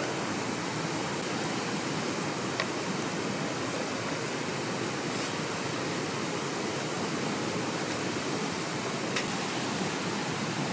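Steady rushing of a mountain stream, with a couple of faint sharp clicks about a quarter of the way in and near the end.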